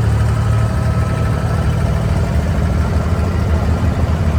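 Abra water taxi's diesel engine running steadily with a loud, even low hum.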